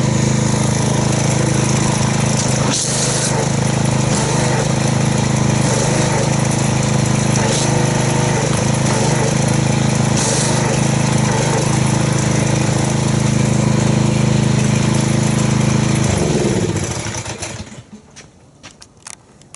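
Pressure washer running loudly with a steady motor hum and a hiss of spray, jetting water into a bucket of car-wash soap to foam it up. About 16 seconds in it shuts off, its motor winding down in pitch until it stops.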